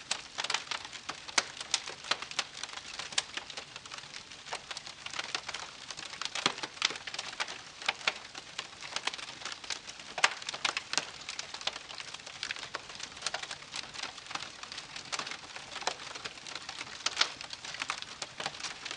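Wood campfire crackling, with a dense run of irregular sharp pops and snaps over a soft hiss.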